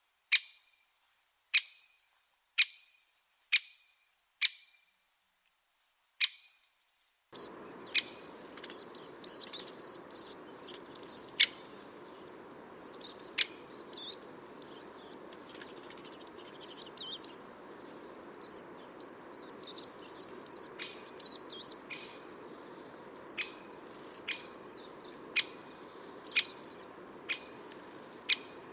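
Garden bird calls: sharp single calls about once a second, then about seven seconds in a busy, high twittering chorus of small birds takes over and runs on with short gaps.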